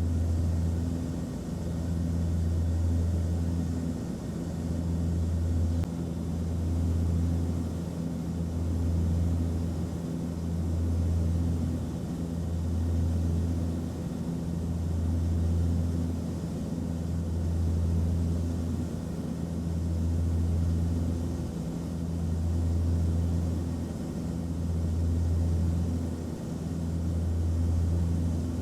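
Airplane cabin noise in flight: a steady low drone of engines and airflow with a faint hiss above it. The deepest part swells and fades about every two seconds.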